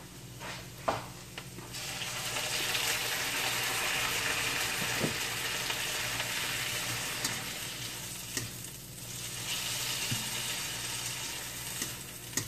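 Chicken pieces frying in butter and onions in a wok, sizzling, as a spatula stirs them. A few knocks come first, then the sizzling starts suddenly about two seconds in and carries on, easing briefly near the two-thirds mark.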